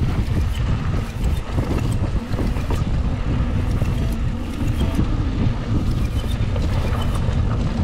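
Mountain bike rolling fast over rough singletrack: a steady rumble of tyres and wind buffeting the microphone, with frequent clicks and knocks as the bike rattles over rocks and roots.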